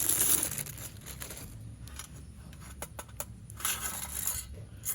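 Plastic packaging crinkling and rustling, then scattered light clicks and a short scrape as a new motorcycle exhaust and its fittings are handled.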